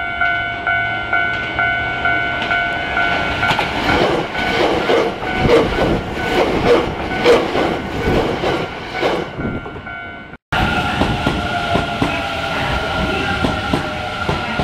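A signal chime of several stacked tones pulses about three times a second at the start. It fades under an electric train that runs by with its wheels clacking over the rail joints. After a break about ten and a half seconds in, a train runs on with a steady whine over the wheel noise.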